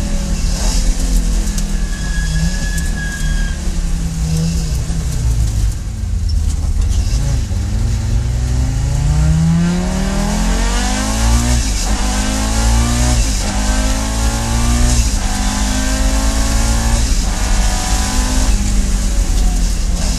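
Audi Sport Quattro S1's turbocharged five-cylinder engine accelerating hard. From about eight seconds in, its note climbs and falls back several times as it runs up through the gears.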